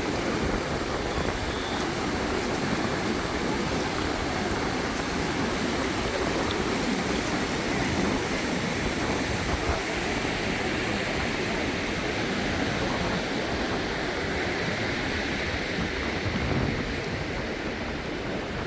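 Small waves washing onto a sandy beach: a steady rush of surf that swells and eases a little.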